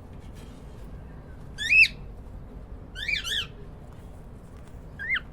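Cockatiels chirping: one loud chirp about two seconds in, a quick overlapping pair around three seconds, and a short chirp near the end, each rising then falling in pitch.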